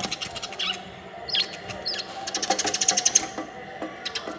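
Small birds tapping their beaks on a mirror in rapid runs of sharp clicks, about a dozen a second, with two short high chirps about a second and a half in.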